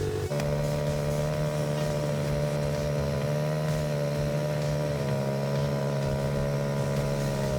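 ATV engine running at a steady speed, a continuous drone whose tone shifts abruptly just after the start and then holds steady.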